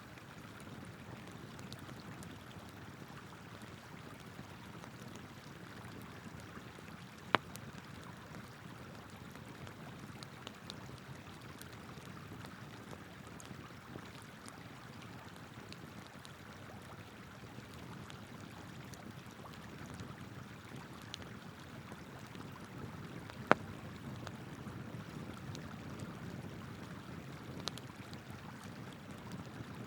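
River water flowing steadily, with a wood campfire crackling over it: two loud sharp pops, about seven and twenty-three seconds in, and a few fainter ticks.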